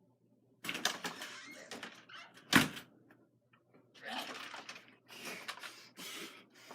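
Bursts of rustling and scraping handling noise, with one sharp knock about two and a half seconds in.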